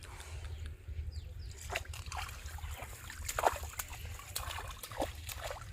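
Shallow water sloshing and splashing, with trickles and drips and a string of short splashes, the loudest about three and a half seconds in.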